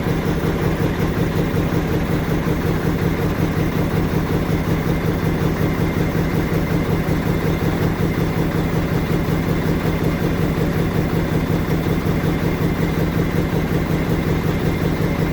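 Dump truck's diesel engine idling steadily, with a fast, even low throb.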